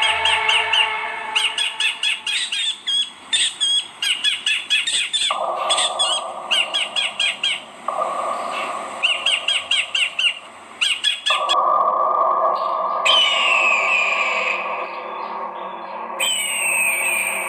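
Songbird calling in rapid runs of sharp, repeated chirps, followed near the end by a few sweeping, falling calls. Abrupt jumps in the background suggest spliced recordings.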